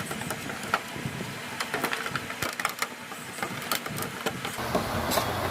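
Packaging being handled as a headset is worked out of its box: a run of irregular plastic and cardboard clicks, crinkles and rustles.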